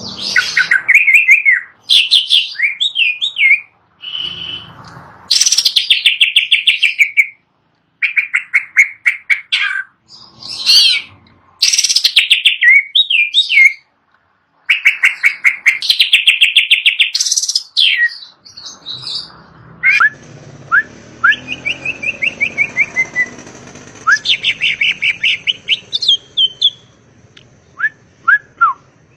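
Cucak ijo (greater green leafbird) singing: loud phrases of fast repeated chirps and sweeping whistles, broken by short pauses.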